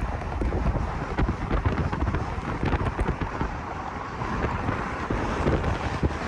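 Wind buffeting the microphone: a steady rushing noise with dense, irregular low thumps.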